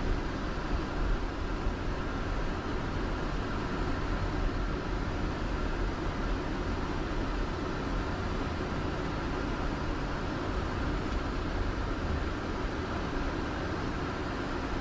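Steady flight-deck noise of a Boeing 747-400 taxiing after landing, its engines at idle, with a constant low rumble.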